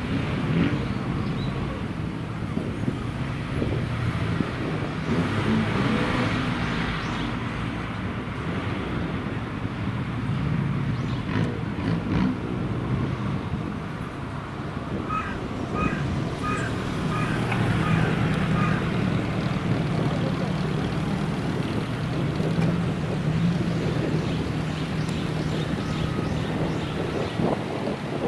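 Old car engine running steadily at low revs, picking up a little in the second half. A run of short high pips sounds about fifteen seconds in.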